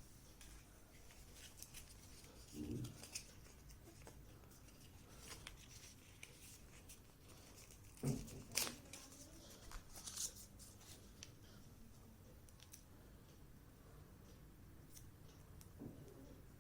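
Faint handling of packaging: scattered light clicks and short rustles as a small accessory is taken out of its wrapping, with the strongest ones about three seconds in and again around eight to ten seconds in.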